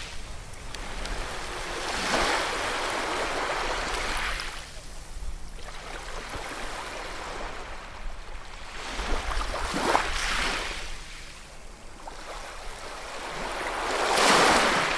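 Ocean surf: waves breaking and washing in, the rush of water swelling in three surges, about two seconds in, near ten seconds and at the end, the last the loudest.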